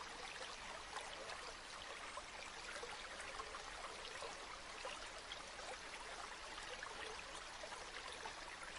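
River water flowing, a steady babble and trickle of running water.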